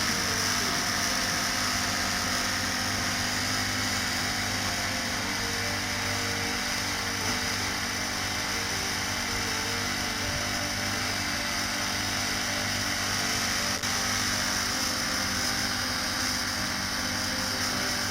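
Small petrol engine of a portable winch running steadily at a constant speed, with no revving.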